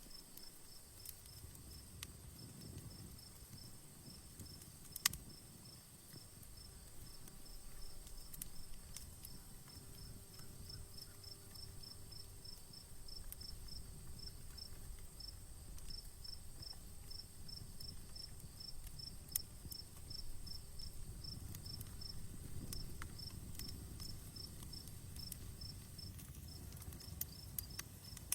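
Campfire crackling with scattered sharp pops, two of them louder, about five seconds in and again around nineteen seconds, over a low rumble from the burning fire. Crickets chirp in a fast, even rhythm throughout, with a steady high hiss above them.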